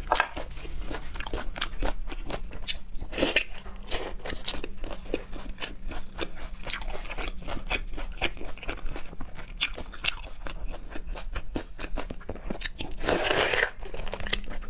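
Close-up eating sounds: wet chewing and biting with many crisp, irregular crunches and clicks, and a longer rustling, sloshing burst near the end.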